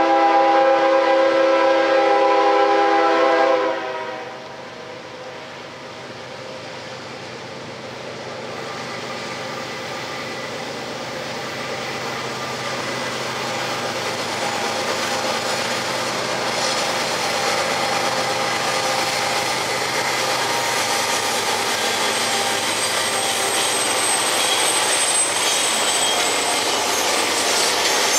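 A diesel locomotive's multi-note horn sounding one long blast that stops about four seconds in, followed by the rumble and clatter of the train rolling on the rails, growing steadily louder as it approaches.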